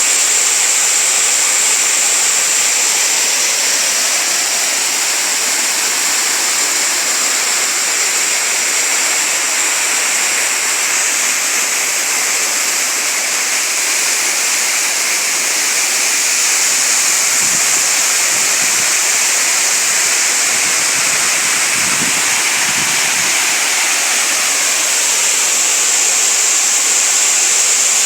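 Waterfall water falling and rushing over rocks in a steady, bright hiss that stays even throughout.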